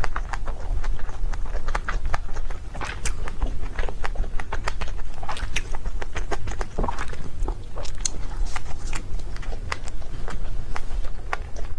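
Close-miked mouth sounds of a person eating cake: irregular wet clicks and soft crackles of chewing, several a second, over a steady low rumble.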